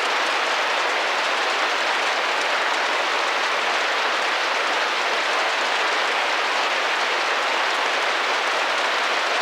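Rain falling steadily against a window, a constant even hiss with no single drops or pauses standing out.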